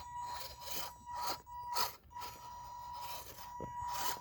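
Electric motor and geared drivetrain of an MN82 RC crawler whining steadily at low throttle, with irregular scrapes and clicks as it crawls over rock.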